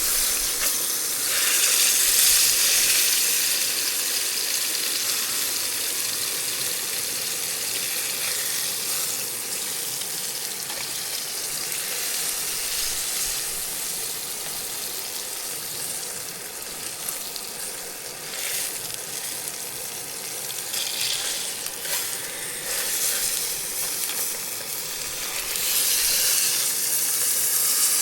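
Trout frying in a skillet, a steady sizzling hiss that swells a little near the start and again near the end.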